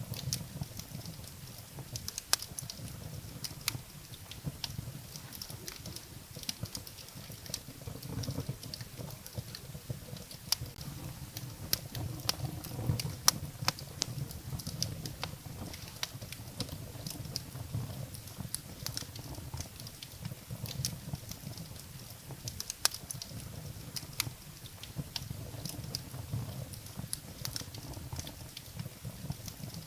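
Firewood burning in a fireplace: irregular sharp crackles and pops of the wood over a low, steady noise of the flames.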